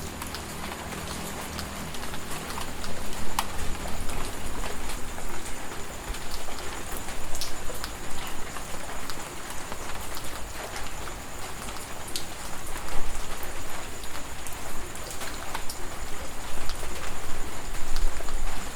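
Heavy rain falling, with many individual drops ticking sharply on a hard surface, growing louder about two seconds in. A thin steady high whine sits over the rain.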